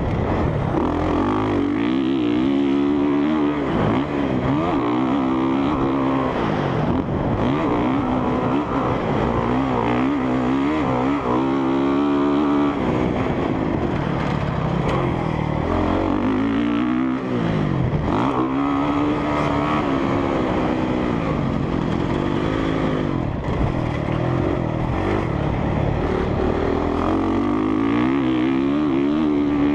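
Honda CRF450R single-cylinder four-stroke dirt bike engine being ridden hard, revving up and falling back again and again every few seconds as the rider works the throttle and gears around the track.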